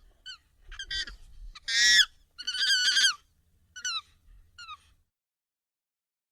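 Monkey calls, sped up and pitched up: a string of short, high, falling chirps, a louder screech about two seconds in and a longer call just after, stopping about five seconds in.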